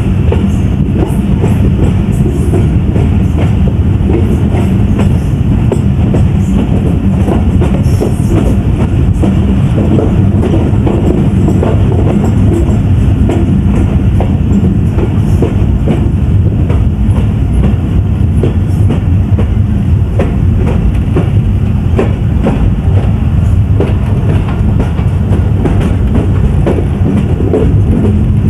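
Moving passenger train running steadily, a constant low rumble with the clickety-clack of wheels passing over rail joints.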